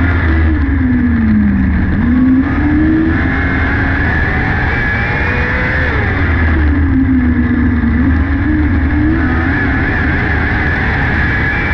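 600cc micro sprint car's motorcycle engine at racing speed. The revs fall away into each corner and climb sharply back on the way out, twice, over a steady low rumble.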